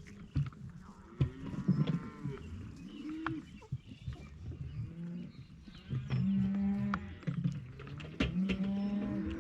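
Several cattle mooing, with long arching calls one after another and overlapping, and a few sharp clicks in between.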